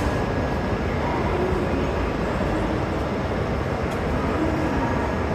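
Steady rumble and hum of a Shinkansen train at a station platform.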